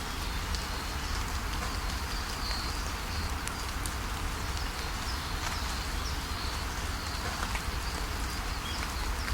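Steady rain falling, with scattered drip ticks and short, high bird chirps repeating over it.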